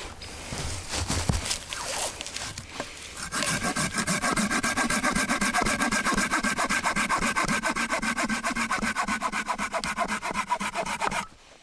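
Hand saw cutting dry deadwood for firewood. For the first few seconds there is rustling and knocking as the saw is set to the wood. About three seconds in, fast, even back-and-forth sawing strokes begin; they break off briefly near the end and then start again.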